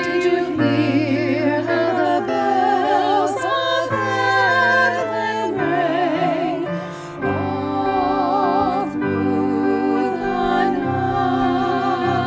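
A women's vocal trio singing a slow Christmas song in parts with vibrato, over sustained low accompaniment notes, with a short breath pause a little past halfway.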